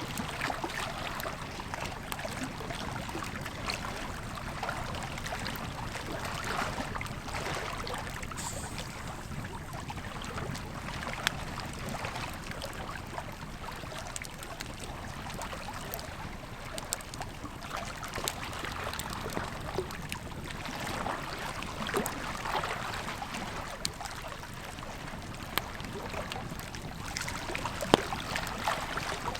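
Wood campfire crackling with scattered sharp pops, over the steady rush of a flowing river. The loudest pops come about 11 seconds in and near the end.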